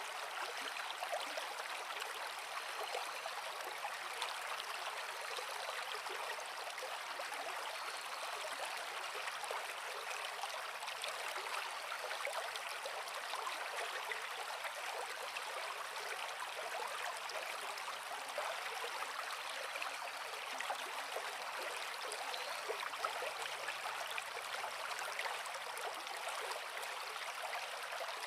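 Creek water running over rocks: a steady, even splashing and babbling, bright rather than deep, with little low rumble.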